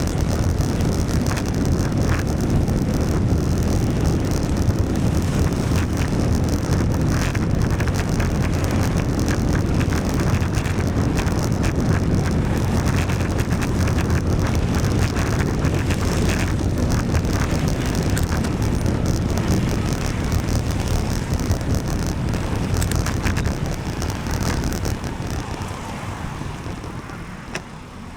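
Wind buffeting the microphone and tyre noise from a bicycle ridden on a wet road, a steady rush that dies down over the last few seconds.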